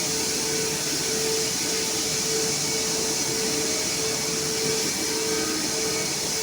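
A CNC laser machine running: a steady whooshing hiss like a blower, with a mid-pitched hum that cuts in and out every half second or so as the machine works.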